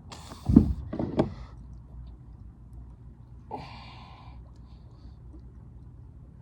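Two loud knocks with a low thud about half a second to a second in, then a person's heavy breath out about three and a half seconds in.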